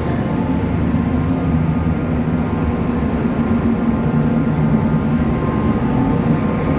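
Ferry's engines running with a steady low drone.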